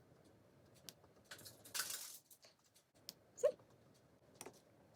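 Small plastic clicks of LEGO pieces and a brief rustle. About three and a half seconds in comes one short, high whine from a Pomeranian.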